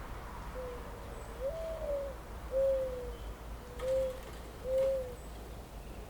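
A bird's low, soft hooting call: a phrase of five notes, the second one longer and slightly higher than the rest.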